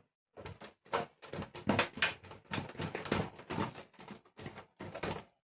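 A rapid, irregular series of short clicks, rattles and scrapes from hands working on a room heater's plastic and metal parts while nuts are fitted onto it.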